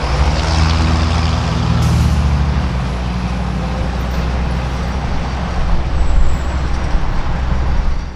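Heavy semi truck's diesel engine running close by, a steady low drone that grows louder late on, with a brief high hiss about two seconds in.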